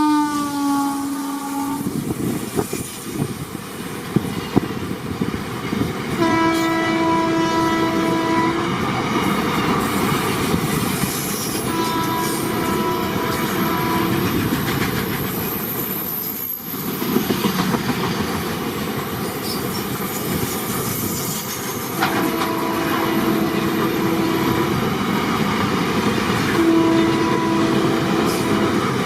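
Indian Railways electric locomotive horns sounding in several long blasts, the first dropping in pitch as it passes, over the steady rumble and clatter of a train running on the rails.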